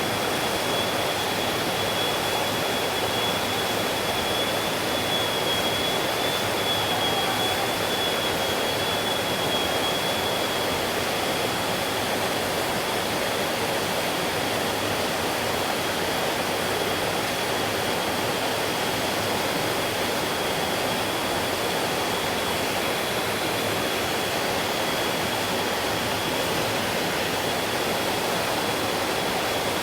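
Mountain stream rushing steadily over rocks, a continuous even sound of flowing water. A thin, steady high tone runs through it.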